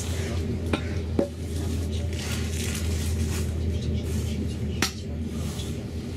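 Passenger train running: a steady low hum and rumble inside the carriage, with three sharp clinks or rattles, two about a second in and one near the five-second mark.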